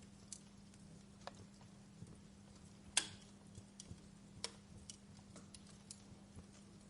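Wood fire in a fireplace crackling: scattered sharp pops and snaps at uneven intervals, the loudest about three seconds in, over a faint low steady hum.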